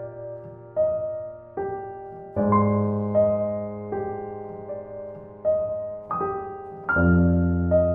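Background music: slow, gentle piano, single notes struck and left to fade, with low bass notes joining a couple of times.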